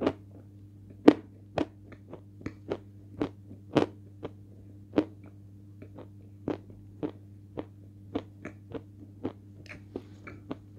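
Close-up crunching of a hard lump of Malomikhailovsky edible chalk being bitten and chewed. Sharp, crisp cracks come about once or twice a second, the loudest about a second in and near four seconds, over a low steady hum.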